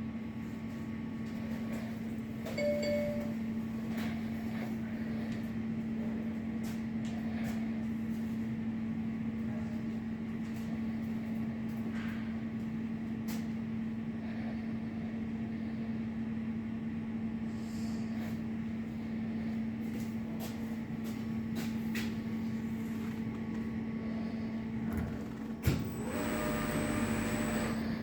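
Hobart PROFI conveyor dishwasher running with a steady, even-pitched hum and scattered light clicks. A short beep-like tone sounds about three seconds in, and near the end a sharp knock is followed by a louder whirring stretch of about two seconds.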